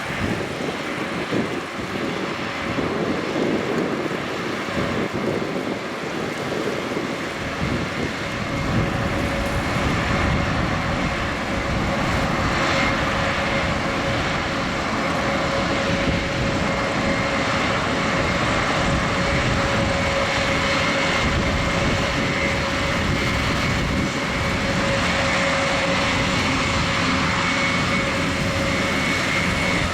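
Airbus A400M Atlas's four TP400 turboprop engines running as the aircraft taxis: a steady propeller drone with a high, steady whine on top. It grows louder over the first ten seconds or so, then holds.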